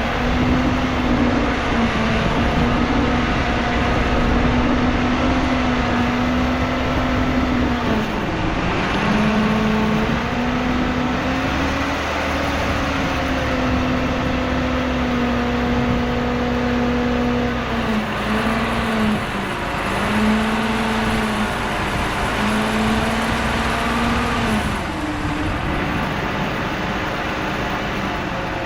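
Bulldozer's heavy diesel engine running hard and steadily. Its pitch sags and recovers about a third of the way in, then dips briefly several times in a row later on.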